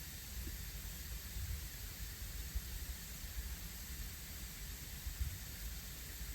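Steady rushing hiss of a river flowing, with an uneven low rumble and a few soft low thumps underneath.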